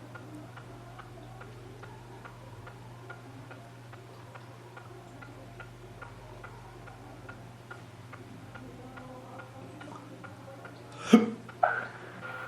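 A clock ticking steadily, about two ticks a second, over a low steady hum. Near the end come two sudden louder sounds about half a second apart.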